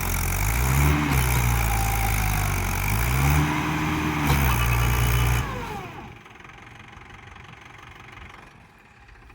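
Mahindra tractor's diesel engine working as it tries to pull its trolley out of mud, revved up and back down twice. The engine sound drops away sharply about five and a half seconds in.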